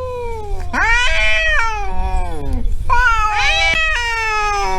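Cats caterwauling in a standoff: long, drawn-out yowls, two in turn, each sliding down in pitch at its end.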